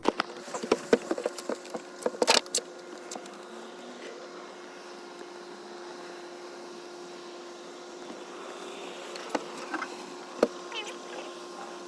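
A small electric motor hums steadily at one pitch, with scattered clicks and knocks, the loudest a few seconds in.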